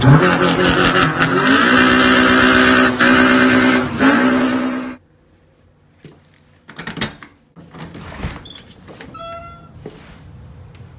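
A car engine revving over the channel intro: the pitch climbs, then holds steady, and the sound cuts off sharply about five seconds in. Faint clicks and handling noise follow.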